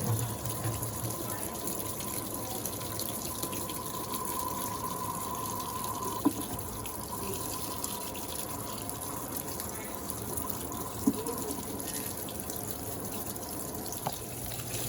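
Water running into the drum of an Electrolux Turbo Acqua Jet LTA15 top-load washing machine as it fills for the rinse right after the spin. It is a steady rush with a faint steady whine under it and a couple of small knocks.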